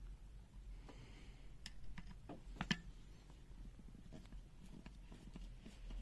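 Faint scattered clicks and taps of small parts being handled while a multimeter is taken apart. The loudest is a sharp click a little under three seconds in, over a steady low hum.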